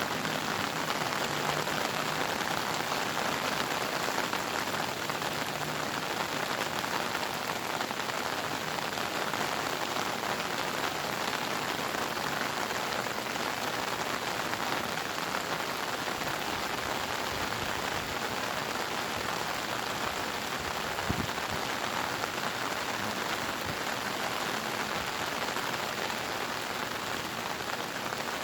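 Steady rainy-season downpour: an even hiss of pouring rain with a dense patter of drops on surfaces, and one sharper tap a little past two-thirds of the way through.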